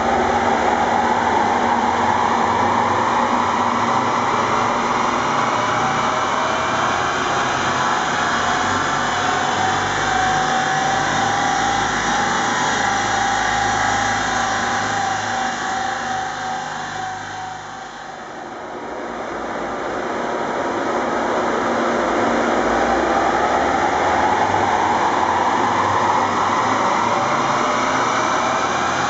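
Seat Ibiza's 1.6 TDI four-cylinder turbodiesel, remapped, pulling under load on a chassis dynamometer. Its pitch rises steadily for about twelve seconds, eases off and drops to a low a little past halfway, then climbs again in a second pull.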